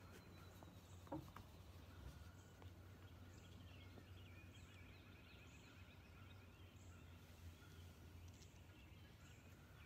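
Near silence with faint birdsong: small birds trilling and chirping again and again over a low steady hum.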